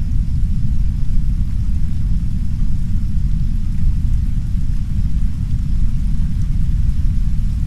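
Heavy brown noise: a steady, deep rumble, with the soft hiss of rain against a window faintly above it.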